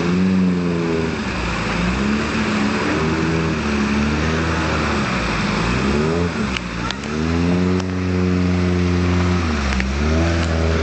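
Suzuki Santana 4x4's engine revving up and down several times under load as it drives through a river, over a steady rush of splashing water. A few short knocks come in the second half.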